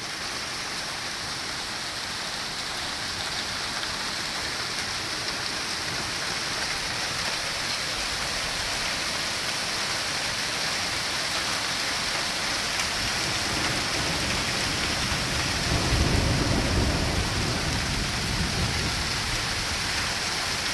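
Heavy rain and hail pelting down in a steady hiss. A low rumble swells and fades about two thirds of the way in.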